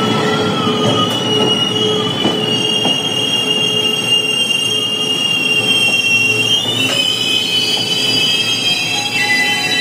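Taiwan Railways electric express train, its power car and passenger cars rolling past along the platform, with the wheels squealing on the rails in a high, wavering tone over the rumble of the cars. A second, lower squeal joins in near the end.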